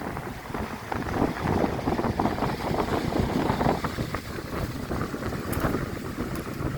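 Strong wind buffeting the microphone in gusts: a loud, rough, fluttering rumble that swells and eases.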